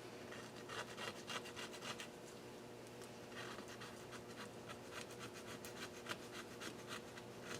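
Quick repeated rubbing strokes on the cylinder head of a KA24DE engine, several a second, in two runs: one in the first two seconds and a longer one from about three seconds in until near the end. A faint steady hum lies underneath.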